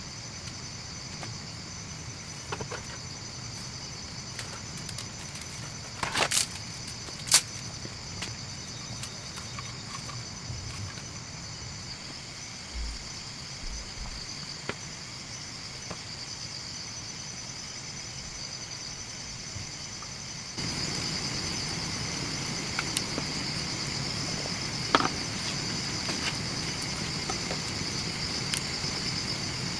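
Insects chirring in a steady high-pitched chorus, with a few sharp knocks. About two-thirds of the way through, the background suddenly gets louder.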